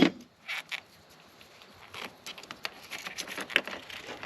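Hands working and trimming a rubber windshield-washer hose: a few sharp clicks about half a second in, then a run of light, irregular clicks and scrapes from about two seconds in.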